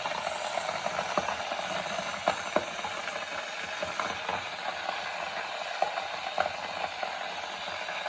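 Kettle heating water toward the boil: a steady hiss with irregular small ticks and pops.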